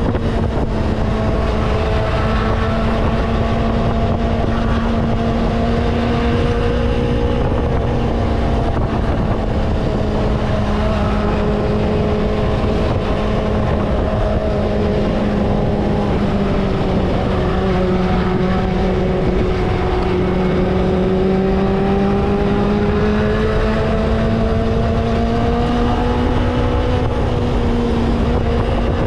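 Vintage Kawasaki motorcycle engine running at a steady cruising speed, with wind rushing over the microphone. The engine note sags slightly in pitch a little past halfway, then rises back near the end.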